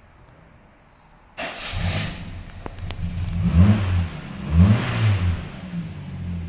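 Jaguar E-Type 4.2's straight-six engine starting about a second and a half in, blipped twice with the revs rising and falling, then settling to a steady idle.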